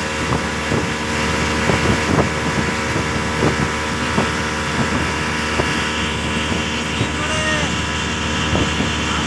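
Speedboat engine running at a steady speed, with wind on the microphone and scattered knocks.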